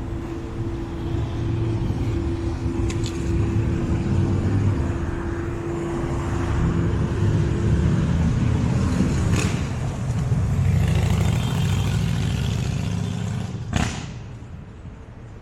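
City street traffic: vehicle engines rumbling close by, with a steady hum that stops about eight seconds in and a sharp knock near the end.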